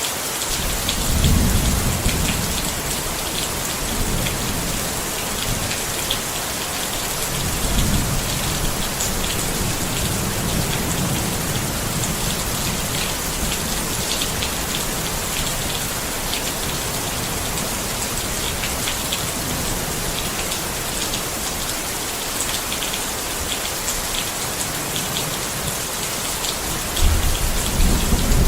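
Steady rain pattering on a tent, an even hiss of drops. Low rumbles swell up about a second in, near eight seconds, and again near the end.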